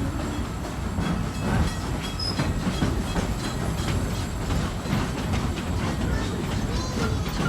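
Narrow-gauge train rolling along the track, heard from aboard: a steady rumble with wheels clattering over rail joints and a few brief, faint high squeals.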